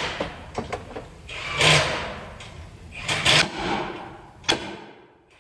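Clattering and scraping of tools and parts being handled during brake work: a few short rattling bursts and knocks, then a sharp click about four and a half seconds in.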